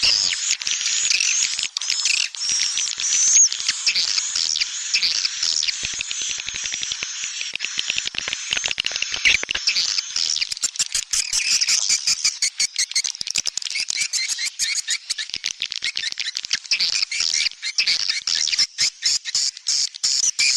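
Swiftlet lure-call recording: dense, high-pitched twittering and chirping of many swiftlets, turning into rapid clicking trills about halfway through. It is the sound played to call swiftlets into a nesting house.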